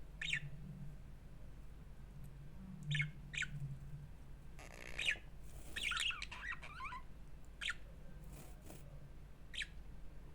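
Pet budgerigars calling: short, sharp chirps every few seconds, with a longer warbling run of falling notes around the middle.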